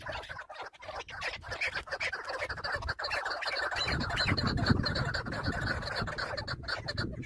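Chukar partridges calling in a rapid, dense chatter of repeated clucking notes. A low rumbling noise joins about four seconds in.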